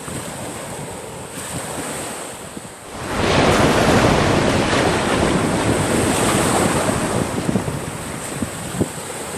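Surf washing up the beach: a wave rushes in about three seconds in, stays loud for several seconds, then eases off. Wind buffets the microphone throughout.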